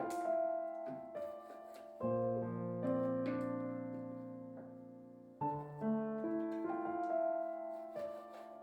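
Background music: slow piano, with chords struck every few seconds and left to fade.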